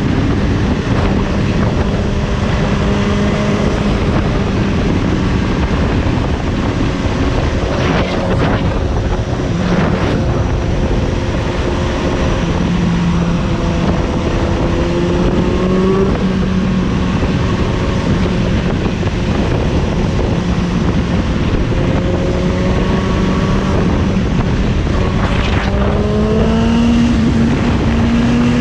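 Suzuki GSX-S750's inline-four engine running under way, with wind rushing over the microphone. The engine note climbs in pitch as it accelerates, once around the middle and again near the end.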